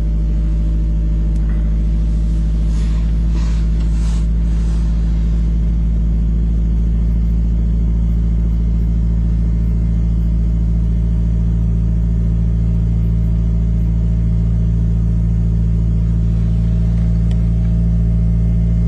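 1994 Ford Probe's 2.0-litre four-cylinder engine idling steadily, freshly cold-started after sitting five months.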